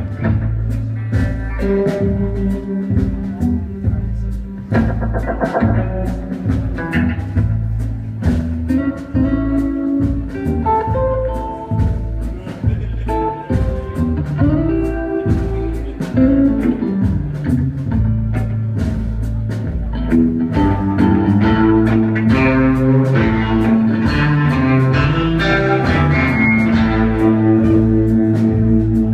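Live band playing an instrumental passage: guitar over a steady bass line with regular drum hits. It grows a little louder about two-thirds of the way through.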